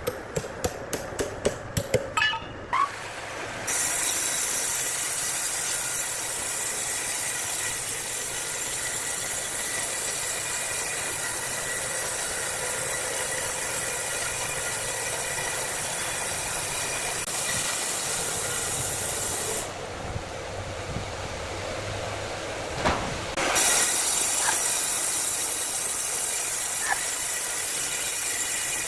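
Large wood saw cutting timber: a steady hissing cut that stops for a few seconds past the middle and starts again. A quick run of sharp knocks opens it.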